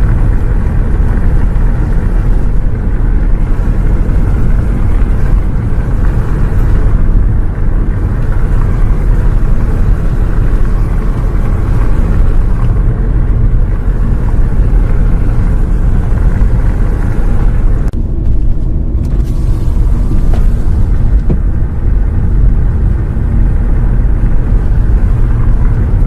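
Steady low rumble of a moving bus, engine and road noise.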